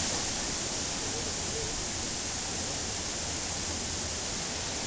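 Waterfall pouring steadily into its pool, a constant even rush of water.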